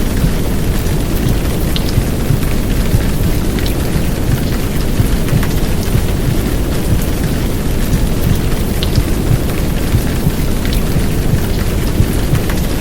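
Heavy downpour of rain with a deep, steady low rumble underneath, part of a womb-sound mix of heartbeat and white noise meant to soothe a baby to sleep. Fine drop ticks are scattered over the constant rushing noise.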